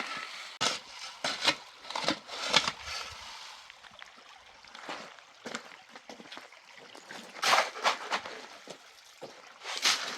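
Liquid sloshing in irregular short bursts.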